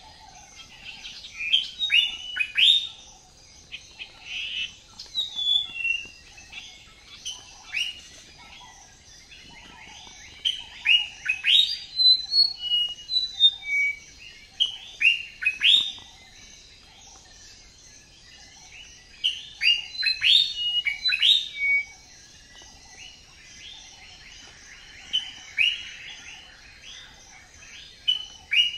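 Small birds chirping: quick downward-sweeping chirps in clusters, with quieter gaps of a few seconds between them.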